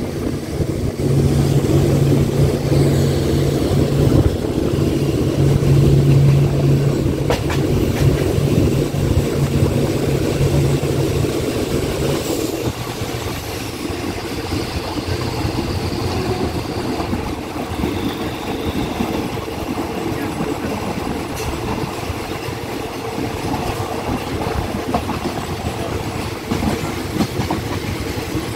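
A train running along the track, heard from aboard: a steady rumble of wheels on rails under a low hum. The low hum drops away about twelve seconds in.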